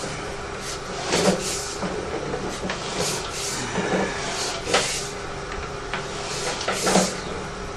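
Steady machine hum with scattered knocks and clatter, the sharpest near the end.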